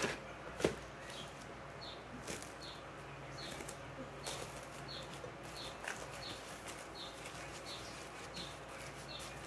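A small bird chirping over and over, short falling chirps about two a second, with a few brief crackles of plastic cling film being torn and pressed around a bundle.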